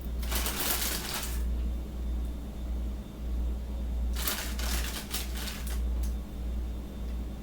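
Two bursts of rustling and crinkling from hands handling food and wrappers, one about half a second in and a longer, broken one past the middle, over a steady low electrical hum.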